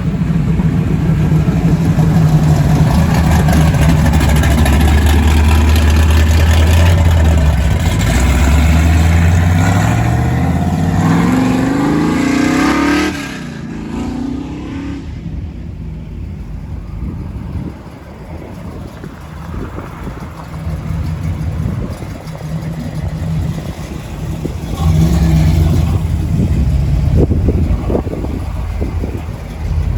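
A car engine running loud and steady, then revving up with its pitch climbing for several seconds until it cuts off sharply about 13 seconds in. A quieter engine rumble follows, and the engine swells again near the end.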